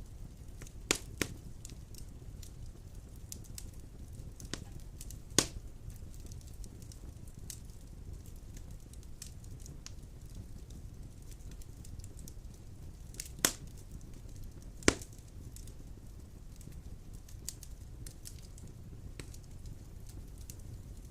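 Wood fire burning in a stone fireplace: a steady low hiss and rumble with light crackling and a few sharp, louder pops, about five in all.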